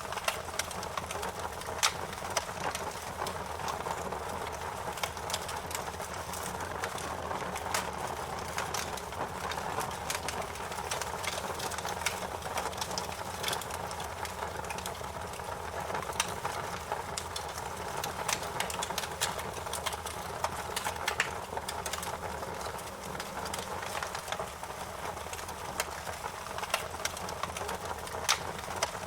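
Wood fire burning: a steady rush of flames with frequent sharp crackles and pops of burning wood, a few louder snaps standing out.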